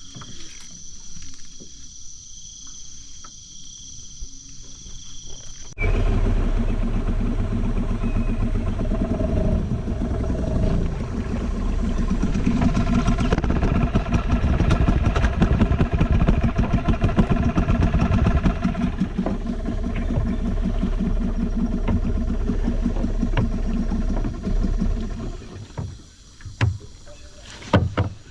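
Insects trilling in a steady high pitch for about six seconds. Then, abruptly, a boat's outboard engine running loud, rising in the middle. It stops a few seconds before the end, followed by a few knocks.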